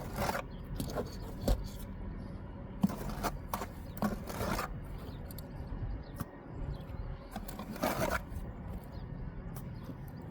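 Steel trowel working mortar against brick: several separate scrapes and a few sharp taps and knocks.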